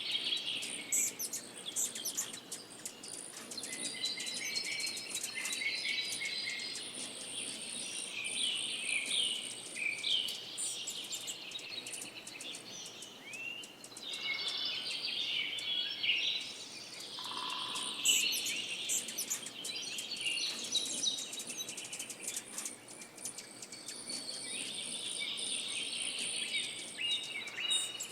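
A songbird singing a long, varied run of quick chirps, trills and short whistled slides, with a steady high-pitched buzzing trill running under it for long stretches.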